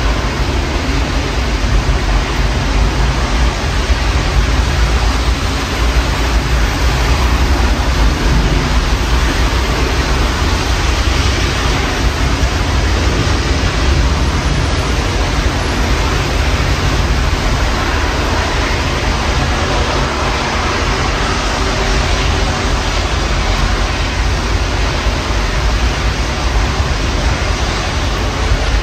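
Steady rain from a severe storm, heard as an even rushing hiss, with wind buffeting the microphone and adding a low rumble. No thunderclap stands out.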